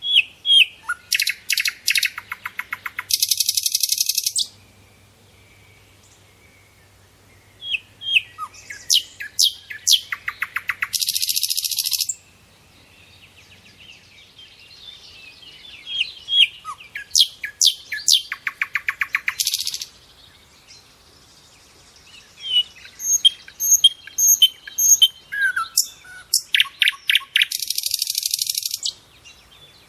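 A songbird singing the same loud song four times with short pauses: a run of sharp downslurred whistled notes that speeds up into a rapid trill and ends in a harsh buzz.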